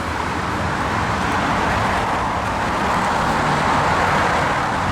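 Steady road traffic noise of vehicles going by on the highway, with a low engine hum coming in about three seconds in.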